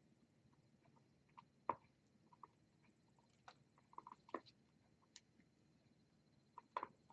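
Pet birds pecking and nibbling at food: faint, scattered clicks and taps, a dozen or so spread irregularly, with a couple of slightly louder ones about two seconds in and near the end.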